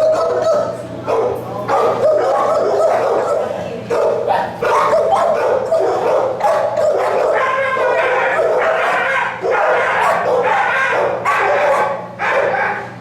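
Several kennelled shelter dogs barking and yipping at once, in an unbroken, overlapping din over a steady low hum.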